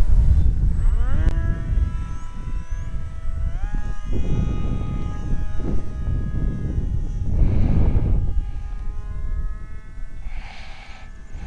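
Small 1800KV brushless electric motor spinning a 6x4 propeller on an RC plane, whining with a pitch that steps up and down several times as the throttle changes. Bursts of low rumbling noise, like wind on the microphone, come and go over it.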